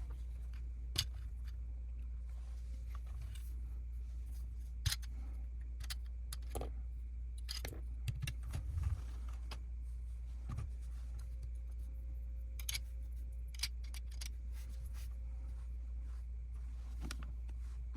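Small plastic Lego pieces clicking and rattling now and then as they are handled, a dozen or so sharp, separate clicks, over a steady low hum.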